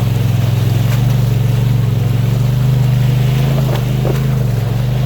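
Polaris RZR XP Turbo S side-by-side's turbocharged twin-cylinder engine running steadily under way, its pitch dipping briefly near the end before picking up again, with wind noise over it.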